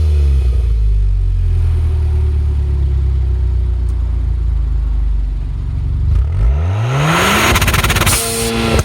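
Car engine and exhaust running at a steady speed, then dipping briefly and revving up under acceleration. Near the end a rapid run of exhaust pops and crackles comes on, from a tune set up to produce them.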